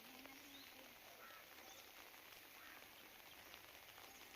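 Near silence: a faint steady background hiss, with a brief faint low-pitched sound at the very start.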